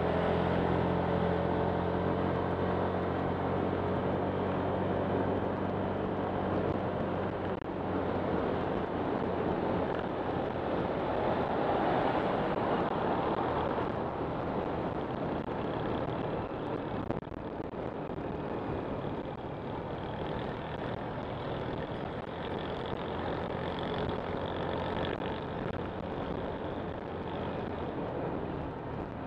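Honda Click 125 scooter on the move: a steady engine hum for the first seven seconds or so. After that a dense rushing of wind and road noise covers the engine.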